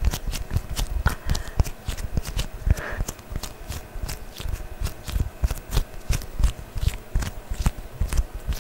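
Close-miked ASMR trigger sounds: rapid, irregular tapping and clicking, several taps a second, with dull low thuds among them.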